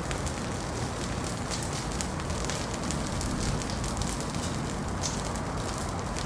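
Wood fire burning in a fireplace, crackling with scattered sharp pops over a steady low rush, one louder pop about five seconds in.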